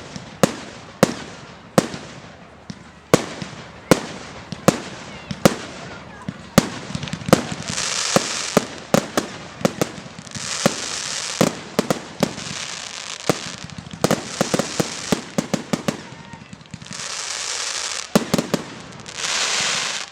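Fireworks display: a run of sharp bangs from bursting shells, about one a second at first and then faster and overlapping, broken by several stretches of dense hiss lasting a second or two.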